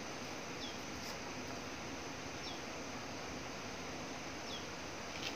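Faint steady outdoor background noise, with a bird giving a short falling chirp three times, about two seconds apart.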